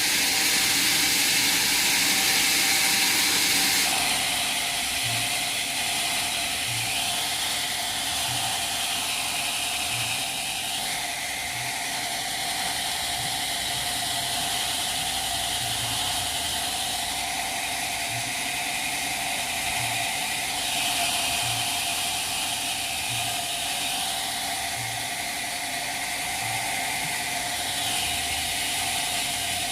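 Sawmill machinery running: a steady whine over an even hiss, with a soft low knock about every second and a half. The hiss drops a step about four seconds in, and a higher tone rises and falls several times.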